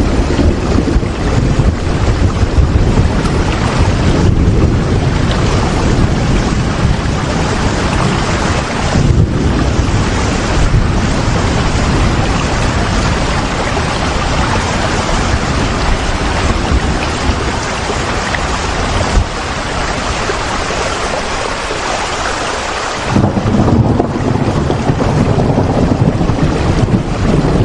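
Rain falling steadily as a dense, even hiss over a deep low rumble. The rumble thins out for a few seconds near the end, then comes back abruptly.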